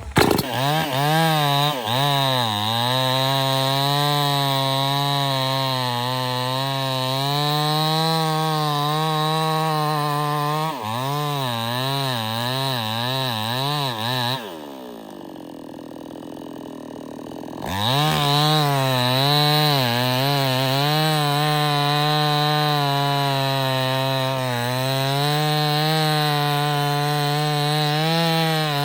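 Stihl 070 two-stroke chainsaw running at high revs under cutting load, the engine pitch wavering as the chain bites into the wood. About halfway it drops back to idle for some three seconds, then revs up and cuts again, dropping off right at the end.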